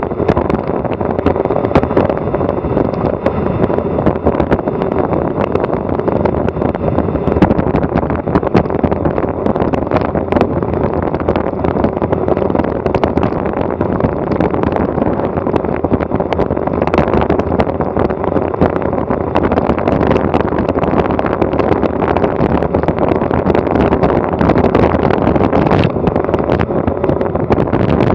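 Loud, steady wind rush buffeting a Garmin Virb Elite action camera's microphone during a fast bicycle descent on a windy typhoon day, with many small knocks running through it.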